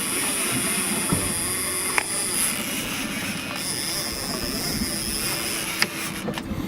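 Boat motor running steadily, with a continuous hum and a haze of wind and water noise, and a few faint clicks.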